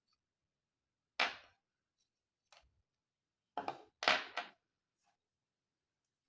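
Sharp clicks and knocks from small hard objects being handled: one loud snap about a second in, a faint tick, then two loud snaps close together, each dying away quickly.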